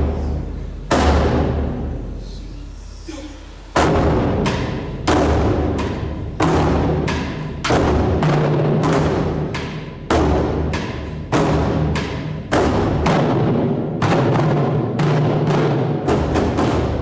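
Japanese taiko drums: one heavy deep stroke that rings away for about three seconds, then from about four seconds in a steady run of strikes, roughly two to three a second.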